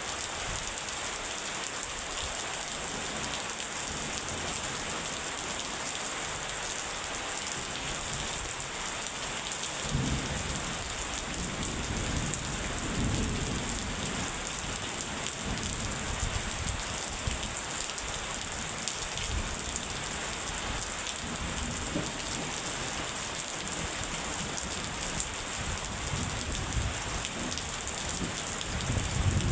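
Rain falling steadily. About a third of the way in, low thunder starts rumbling on and off over it, and it swells again near the end.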